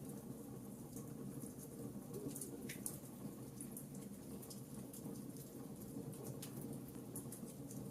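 Fireplace fire crackling, with small pops scattered irregularly over a steady low rush of flames.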